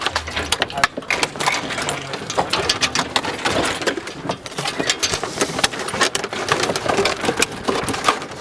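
Thin plastic water bottles, cut into strips, crackling and crinkling as they are crushed and pushed into a large plastic water bottle: a dense, irregular run of sharp plastic cracks.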